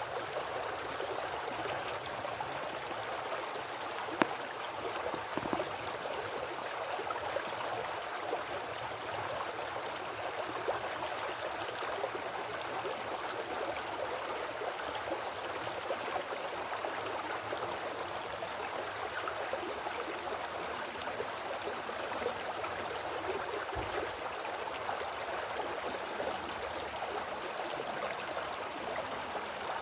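Woodland creek flowing steadily, a continuous rush and gurgle of running water, with one sharp click about four seconds in.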